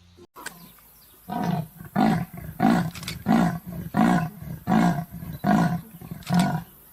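An animal calling in a series of eight deep calls at an even pace, about one every 0.7 seconds.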